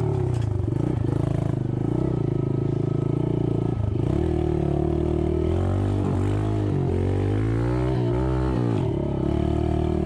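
Skid steer's diesel engine running hard, its pitch dipping and recovering under load about a second in, near four seconds and again around eight to nine seconds.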